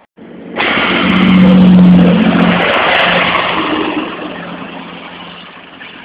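Class 158 diesel multiple unit passing close by at speed: a loud rush of engine and wheel noise that comes in suddenly, peaks about two seconds in with a steady low engine note, then fades as the train draws away.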